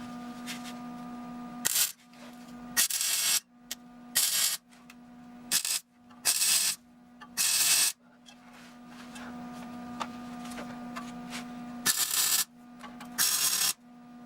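Welder laying tack welds on a steel exhaust H-pipe: about eight short sizzling arc bursts, each under a second, with a pause of a few seconds in the middle, over a steady hum between welds.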